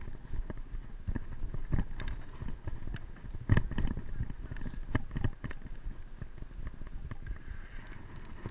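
Bicycle riding over uneven ground: irregular knocks and rattles from the bike over a steady low rumble, with the sharpest knock about three and a half seconds in.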